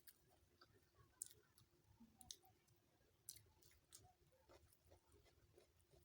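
Faint eating sounds, near silence: soft irregular clicks of a person chewing biryani, about one or two a second.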